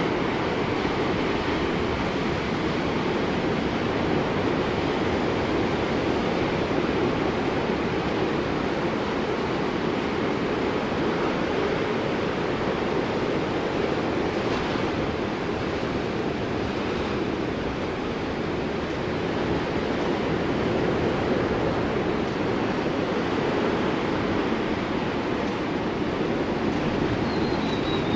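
Ocean surf washing onto a beach: a continuous rush of breaking water that swells and eases slowly.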